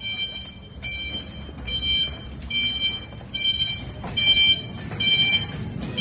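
Reach truck's warning beeper sounding a steady, evenly spaced beep, a little more than one a second, starting about a second in, over a low machine rumble.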